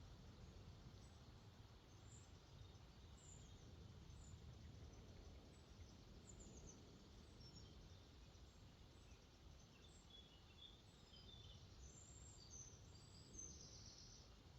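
Faint, steady low rush of water where a lake flows out into a river, with scattered short bird chirps in the distance, coming more often in the second half.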